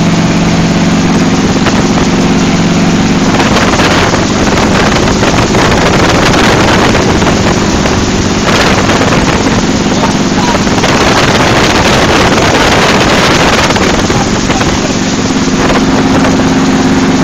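Helicopter noise: a loud, steady drone with a low hum, swamped for much of the time by a rush of wind buffeting the phone's microphone.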